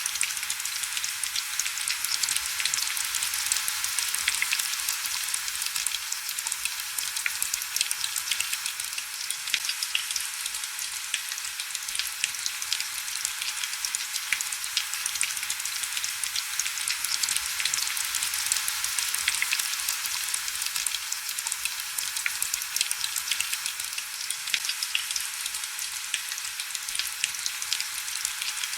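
Steady heavy rain: a dense, bright hiss crackling with countless small drop taps, with almost no low rumble.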